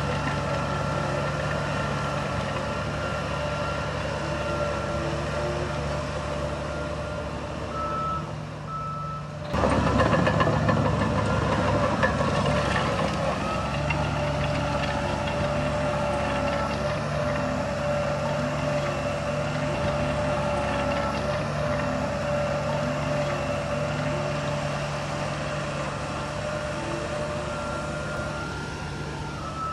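Heavy earthmoving machinery's diesel engines running, with a reversing alarm beeping over them. About ten seconds in, a sudden louder rush of noise comes in and then settles back to the steady running.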